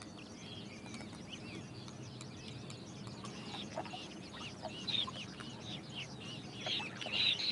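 A flock of birds calling: many short, high chirping calls overlapping, growing busier and louder in the last couple of seconds.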